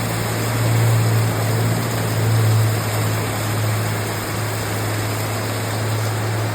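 Steady rushing noise of heavy rain, with a constant low hum underneath.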